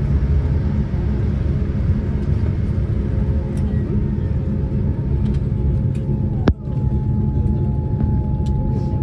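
Steady low rumble of a Boeing 787-10 heard from inside the economy cabin around landing. There is a sharp click with a brief drop about six and a half seconds in.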